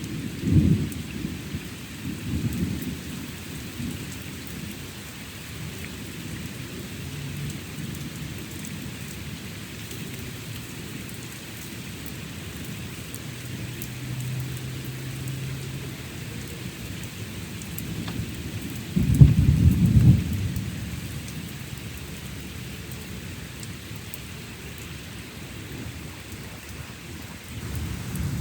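Thunderstorm: steady rain with thunder rumbling. There are short rumbles just after the start and again about two and a half seconds in, and the loudest peal of thunder comes about nineteen seconds in, lasting about a second.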